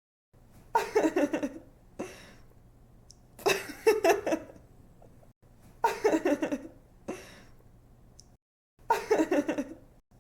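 A young woman's giggling laugh: a short burst of quick pitched 'ha-ha' pulses with a softer tail. It repeats the same way four times, about every two and a half to three seconds.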